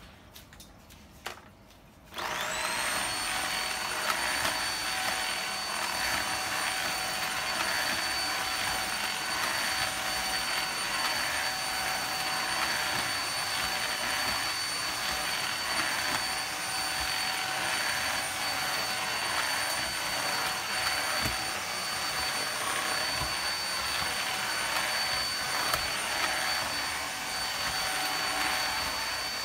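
Skylar handheld vacuum cleaner switched on about two seconds in, its motor quickly reaching speed and then running steadily: a constant high whine over a hiss of air.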